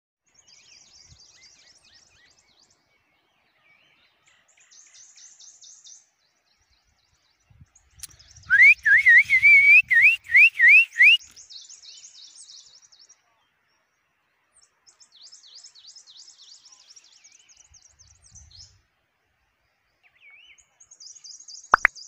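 Wild birds singing: short bursts of high, rapid chirping trills come and go, and from about 8 to 11 seconds one bird whistles a loud run of about seven rising notes.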